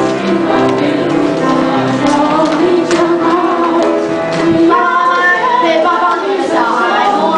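Singing voices with musical accompaniment, a sung performance with a steady melodic line.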